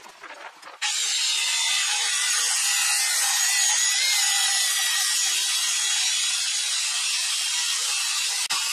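Circular saw ripping along a straight-edge guide through a 2-inch-thick board. It starts about a second in, cuts steadily for about seven seconds with a faint high whine, and stops abruptly near the end.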